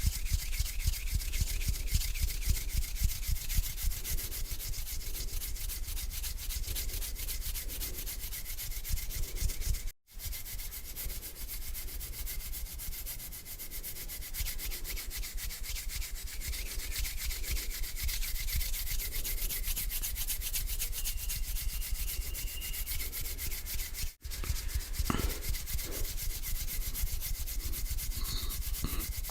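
Hands rubbing together close to the microphone: a steady, dry rubbing that breaks off briefly twice.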